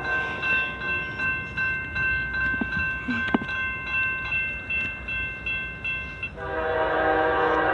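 Railroad grade-crossing bell ringing in a steady, even rhythm of about two strokes a second. About six seconds in, the horn of an approaching Norfolk Southern locomotive starts up, louder and lower, and holds its chord.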